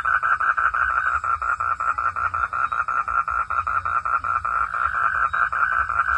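Frogs calling in a steady pulsing chorus, about six or seven pulses a second, over a faint low rumble.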